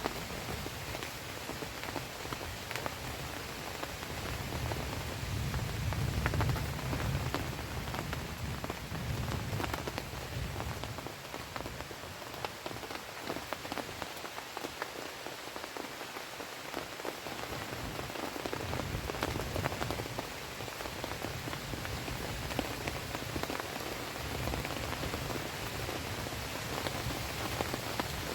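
Heavy rain falling on a tarp shelter, a dense steady hiss full of small drop hits. Under it runs a low rumble that fades out for several seconds around the middle and then comes back.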